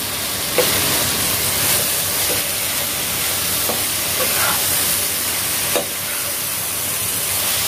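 Onion-tomato masala with dried anchovies sizzling in a non-stick pan as a perforated spatula stirs it, with a few short scrapes and taps of the spatula against the pan.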